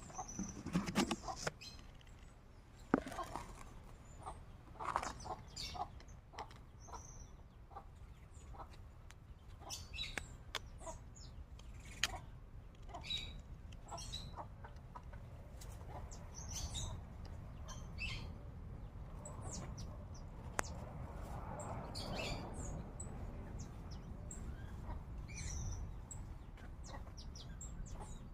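Chickens clucking now and then, with small birds chirping in short scattered calls and a few sharp clicks over a low steady rumble.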